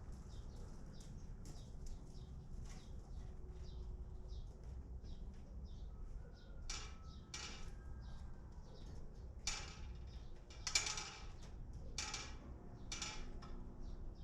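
Small birds chirping: a run of short, high chirps, with several louder, sharper calls in the second half, over a low steady rumble.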